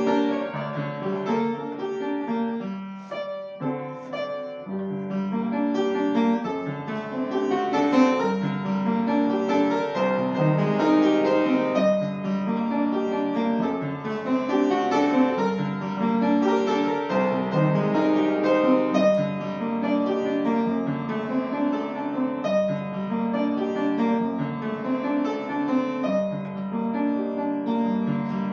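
Solo piano playing a classical piece, with a steady flow of notes and repeated chords.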